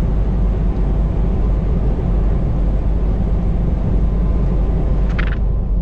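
Semi truck cruising on the highway: a steady, loud low rumble of the diesel engine and road noise, with a brief higher-pitched sound about five seconds in.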